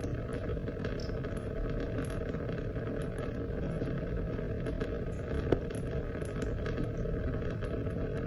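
Steady rain falling, a dense low hiss dotted with small drop ticks. One sharper single click comes about five and a half seconds in.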